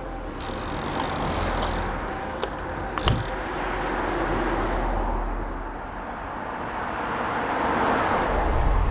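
Rushing road-vehicle noise with a low rumble, swelling and fading twice, with a brief rattle about three seconds in.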